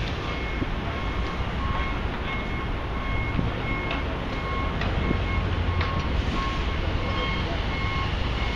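A backup alarm beeping steadily, about one beep every two-thirds of a second, over the low rumble of city traffic, with a few sharp knocks from the construction work.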